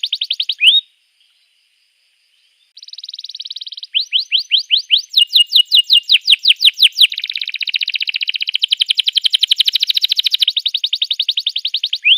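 Domestic canary singing in fast trills of repeated rising notes. Each phrase has its own speed, and there is a pause of about two seconds near the start.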